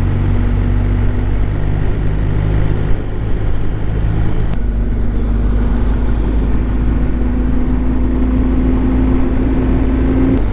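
BMW R1250GS boxer-twin engine running steadily under way, with wind noise. Its note rises slowly over the last several seconds, then drops suddenly near the end.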